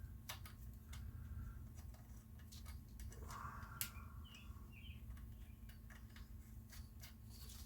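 Faint, scattered clicks and light taps of metal engine parts and hand tools being handled, the sharpest click about halfway through, over a steady low hum.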